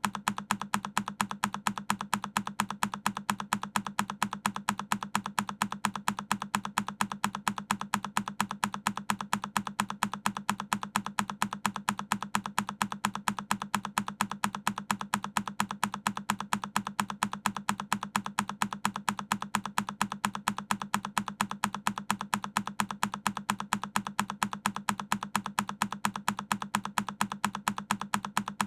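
A single key on a Keychron K10 mechanical keyboard pressed over and over, each press a sharp click, repeating in an even rhythm a few times a second.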